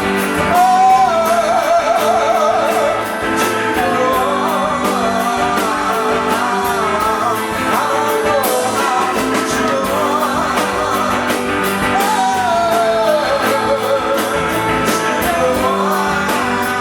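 Live rock band playing a loud instrumental passage with guitar and drums. A singer's wordless 'oh' glides over it about a second in, and a similar gliding melody line comes back about twelve seconds in.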